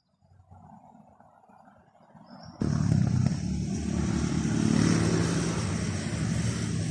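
A motor vehicle engine running, cutting in suddenly about two and a half seconds in after a quiet stretch.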